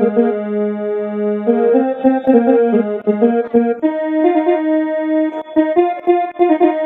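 Keyboard instrument playing the melody of the devotional aarti tune in sustained, organ-like notes, starting abruptly. It is the lead-in before the singing begins.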